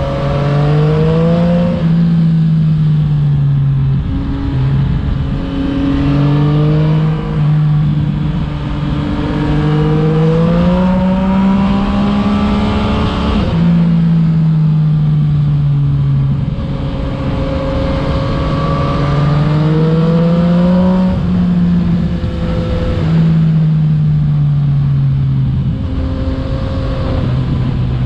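Yamaha MT-09/FZ-09 crossplane three-cylinder engine through an Akrapovic exhaust, heard while riding: the engine note climbs under acceleration, drops abruptly at each gear change, and now and then falls away as the bike slows, over steady wind rush.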